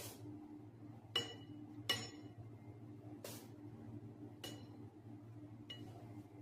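A utensil clinking against a dish about six times at irregular intervals, each clink short and ringing. A steady low hum runs underneath.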